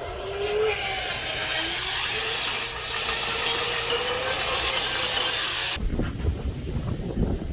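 Dryer vent cleaning equipment running: a loud hiss of rushing air with a faint wavering whine under it, cutting off abruptly about six seconds in and leaving a low rumble.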